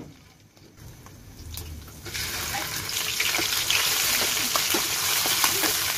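Spice paste and chicken pieces frying in hot oil in a wok. A faint sizzle jumps to a loud, steady sizzle about two seconds in, with a metal spoon clicking and scraping against the pan.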